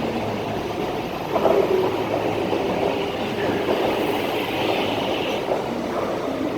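MTR East Rail Line R-Train, a Hyundai Rotem electric multiple unit, running along the line with a steady rumble and a low hum, swelling briefly about one and a half seconds in.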